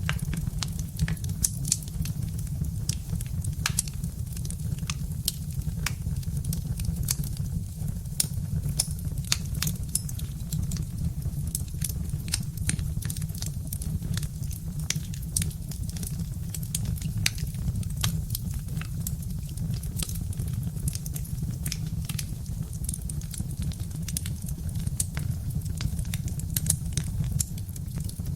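Birch-wood fire crackling in a fireplace: many irregular sharp pops and snaps over a steady low rumble.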